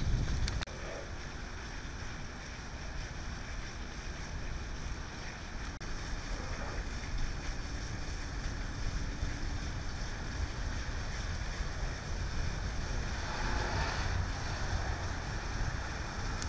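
Steady rain falling on wet pavement and puddles, an even hiss, with wind rumbling on the microphone underneath.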